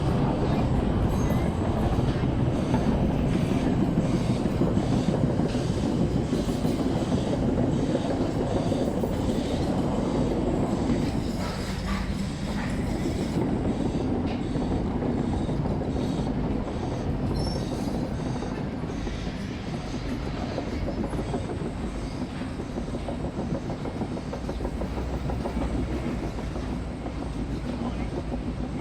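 Steady low rumble of heavy machinery running, easing slightly after about eleven seconds.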